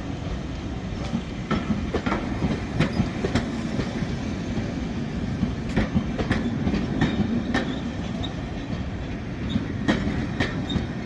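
Train running along the track: a steady low rumble with sharp wheel clicks and knocks from the rails, irregularly spaced, about one a second.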